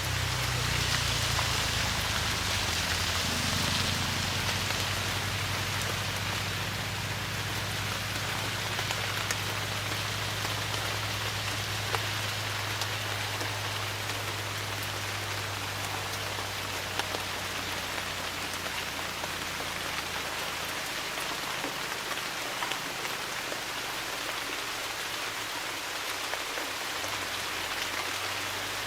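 Steady rain falling on a surface, a dense even hiss dotted with the ticks of individual drops. A low rumble underneath fades away about two-thirds of the way through.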